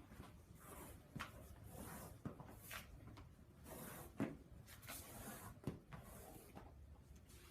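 Faint, scattered knocks and rustles of tools and flooring material being handled, with the sharpest knock about four seconds in.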